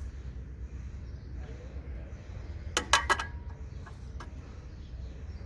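A quick cluster of sharp metallic clinks about three seconds in, with a brief ringing after them, then two fainter clinks, over a low steady hum.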